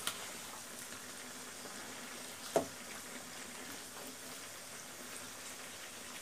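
Beef and ground spices sizzling in a wok as they are stirred with a wooden spatula. The spatula knocks against the pan once, sharply, about two and a half seconds in.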